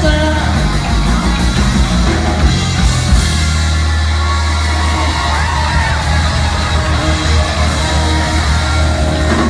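Live electric blues-rock band playing, with the rhythm giving way about a third of the way in to a long held low chord, and audience members yelling and whooping over it.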